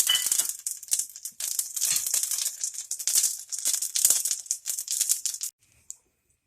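Mustard and cumin seeds crackling and popping in hot coconut oil, a dense rattling spatter that dies away about five and a half seconds in as the pan cools off the heat.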